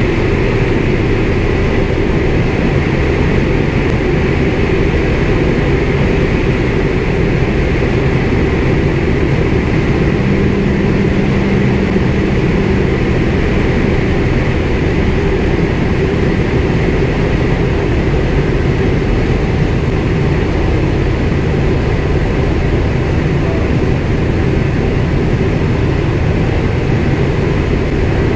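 The Winjeel's Pratt & Whitney R-985 nine-cylinder radial engine and propeller running steadily, heard loudly from inside the cockpit.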